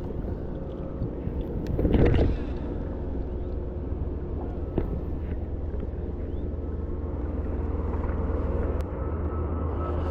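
A motor running steadily, with a louder rush of noise about two seconds in.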